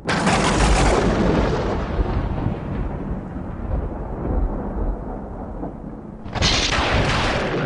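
Two loud booms with a long rumbling fade, the first right at the start and the second about six and a half seconds in.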